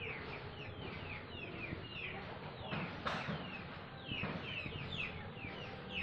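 Birds chirping: many short, high chirps, each falling in pitch, several a second without a break.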